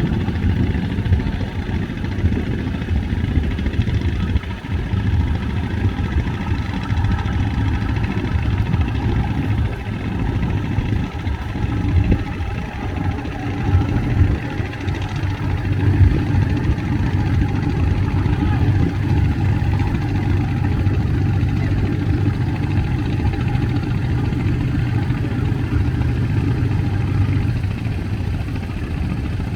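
A fast passenger boat's engines running steadily: a continuous low drone, uneven in level, with no break.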